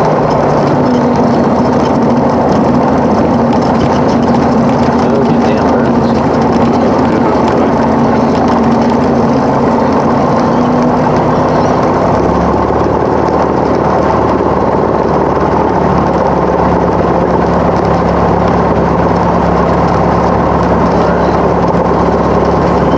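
Cessna 172's piston aircraft engine running steadily, its note shifting about halfway through.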